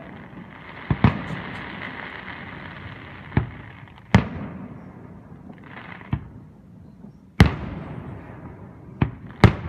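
Aerial fireworks shells bursting in a series of sharp booms, about eight in ten seconds, including two close pairs, with a steady noisy rumble between the bursts.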